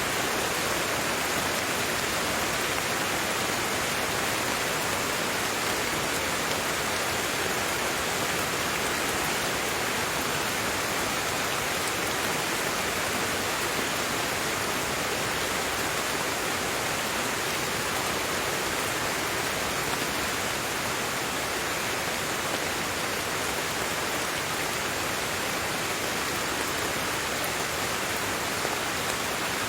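Steady, even rain, a continuous hiss without distinct drops or thunder.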